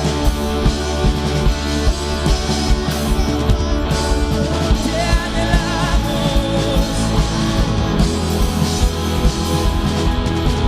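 Worship band playing music with a steady drum beat and a sung melody.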